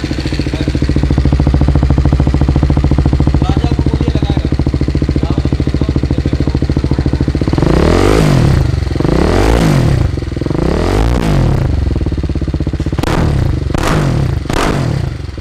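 BMW G310R's single-cylinder engine idling through an aftermarket full-system exhaust, then blipped about six times with quick throttle revs that rise and fall, starting about halfway in.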